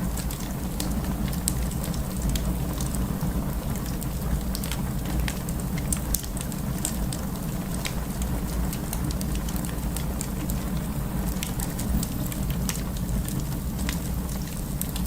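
Wood fire crackling: frequent sharp pops and snaps over the steady low sound of the burning logs.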